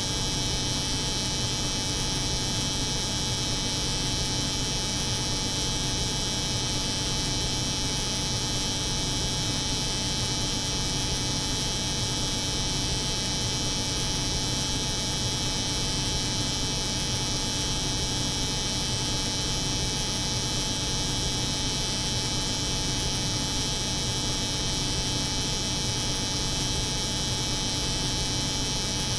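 Steady layered drone of a cold room's refrigeration hum and an electric hair clipper's buzz, with a low hum and a bright hiss that never change.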